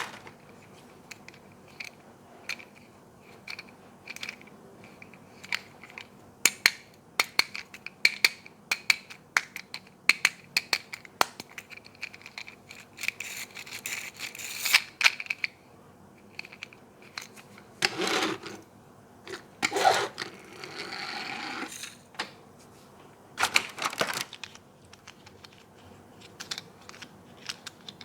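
Toy cars and their plastic and cardboard packaging being handled during an unboxing: many small clicks and taps, with a few short rustling, crinkling bursts in the second half.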